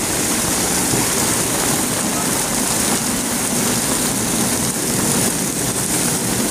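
Heavy monsoon rain pouring down on a street and parked cars, a steady, even rush of water with no breaks.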